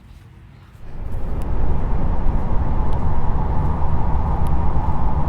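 Steady, rumbling, wind-like noise, like breeze in a blizzard, played back as the 'sound' of Jupiter's moon Callisto. It starts about a second in.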